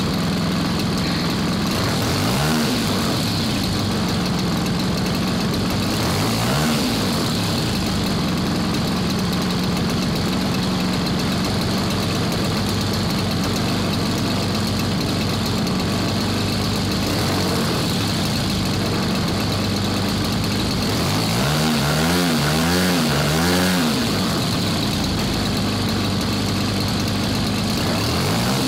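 MVVS-80 model aircraft engine running steadily with its propeller, a continuous buzzing note. The sound wavers briefly a few times and swells slightly about three quarters of the way through.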